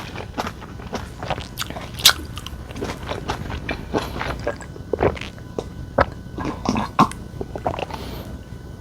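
A person chewing and biting food: a steady stream of short clicks and crunches from the mouth, with a sharper crunch about two seconds in.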